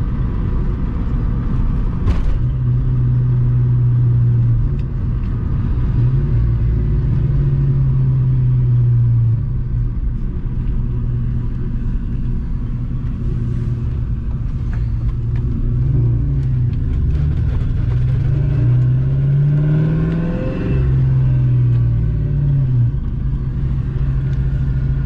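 Ford 4.6-litre two-valve V8 running as the Mustang GT drives at easy revs, heard from inside the car with road noise. The engine note steps up and down with the throttle and shifts, climbing and then dropping sharply at a gear change about twenty seconds in.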